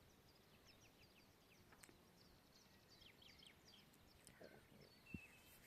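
Faint birdsong: many short, high chirps and trills scattered over a quiet background.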